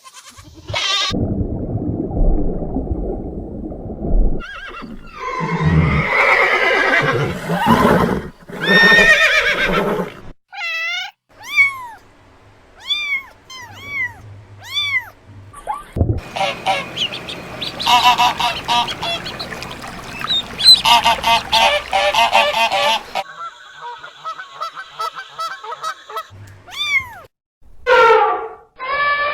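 A series of different farm animal calls cut one after another, among them pitched bleating or honking calls and a run of short chirps, with abrupt changes between clips.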